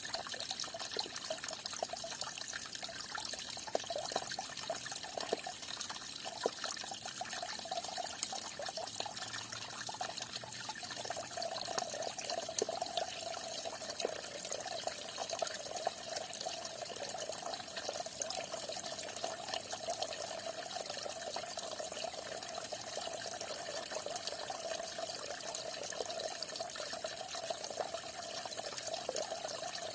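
Falling water splashing steadily, a small trickling stream with scattered drips and a hollow splashing note that becomes steadier after about ten seconds.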